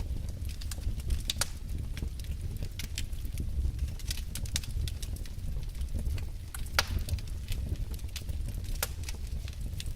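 Wood logs burning in a fireplace: a steady low rumble of the flames with irregular sharp crackles and pops, a few of them louder.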